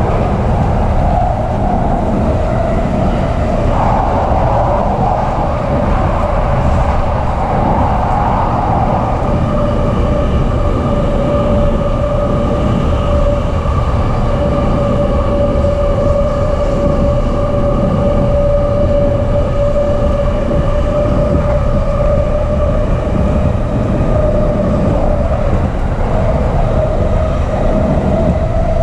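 Inside a JR East E233 series electric commuter train running at steady speed: a continuous rumble of wheels and running gear, with a steady whine from the traction motors.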